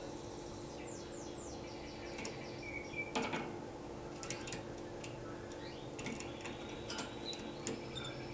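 Canary calling softly between song phrases: a few faint falling whistles and short chirps, with scattered sharp clicks and ticks over a steady low hum.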